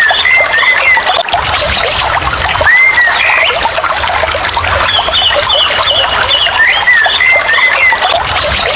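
Nature ambience: chirping, swooping bird calls over a steady hiss and low rumble, the same group of calls coming round again about every four and a half seconds.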